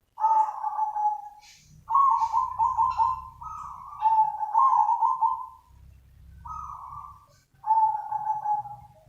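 Zebra dove cooing: about five phrases of rapid, trilled coos, one after another with short pauses between them.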